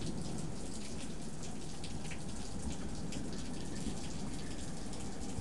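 Thunderstorm rain falling steadily, with many individual drops striking close by.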